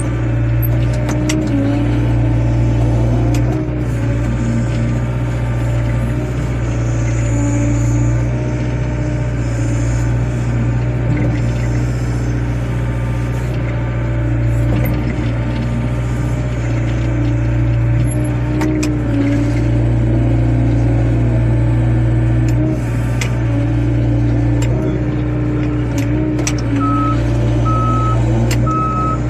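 Wheeled excavator's diesel engine running steadily while working, its pitch shifting up and down under changing load. A short run of beeps sounds near the end.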